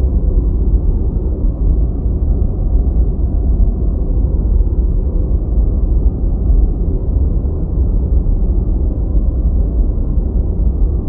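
Deep white noise playing steadily and without change: a low, rumbling hiss with its weight in the bass and almost nothing in the high treble.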